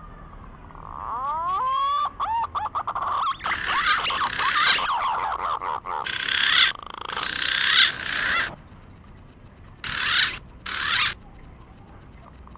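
Green pigeon (punai) lure call recording: rising, warbling whistles begin about a second in, followed by several stretches of dense, harsher calling that start and stop abruptly.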